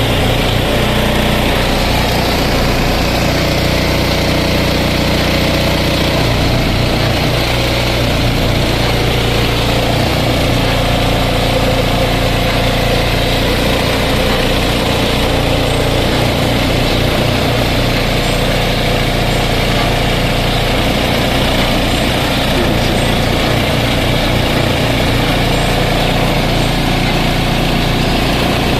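An engine running steadily at idle, loud and unchanging.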